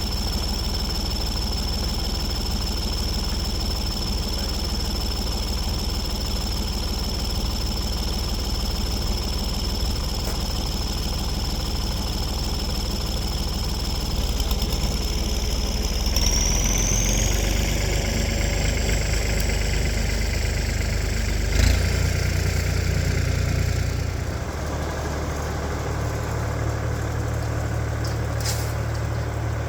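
Tractor engine running under load with a steady high whine. About halfway through, the whine climbs in pitch as the engine revs up. A sharp knock comes a few seconds later, and then the engine settles to a lower, steadier run.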